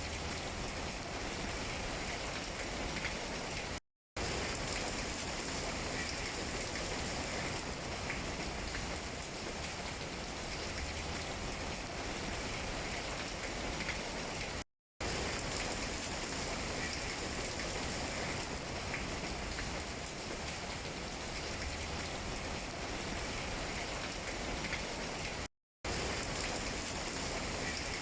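Steady rain falling and pattering on tree leaves, an even hiss with small drop taps. It cuts to total silence for a split second three times, about every eleven seconds.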